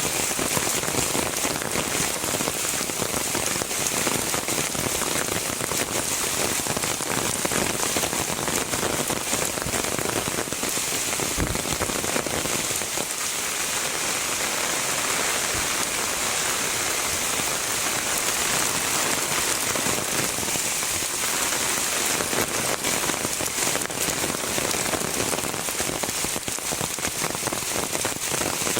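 Heavy rain falling steadily, a dense hiss of drops with fine ticks of individual drops striking surfaces. A brief low thump about eleven seconds in.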